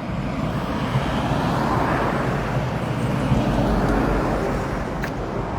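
Steady outdoor rush of road traffic, a little louder in the first couple of seconds.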